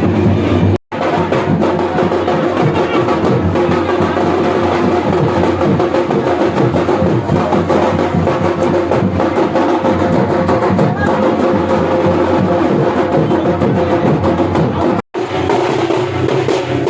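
Percussion music with drums and sharp wooden strikes, played without a break apart from two brief dropouts, one about a second in and one near the end.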